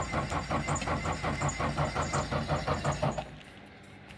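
The R5's engine being cranked by its starter, chugging evenly at about six beats a second without catching, then stopping abruptly about three seconds in: a failed attempt to start an engine with hard-starting trouble.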